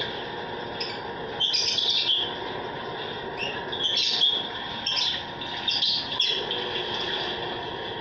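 Lovebirds and other small aviary birds chirping and squawking in short high calls, four or five bursts a second or so apart, over steady background noise.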